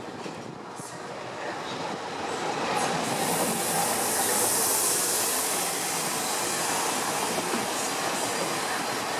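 SNCF Régiolis regional multiple unit running past close by along the platform. The rumble of wheels on the rails builds over the first few seconds and then stays loud as the carriages go by, with a strong hiss on top that peaks in the middle.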